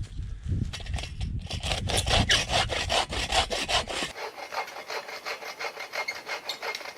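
Hand saw cutting through the trunk of a standing dead spruce, in quick, even back-and-forth strokes, about three a second.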